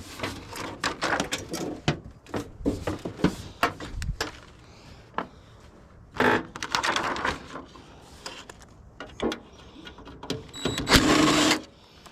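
Metal tools and parts being handled: a quick run of clicks and clinks, with a longer rattling scrape about six seconds in and a louder one near the end.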